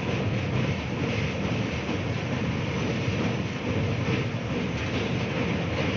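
A steady, dense rumbling noise, strongest in the low end, with no distinct events or rhythm.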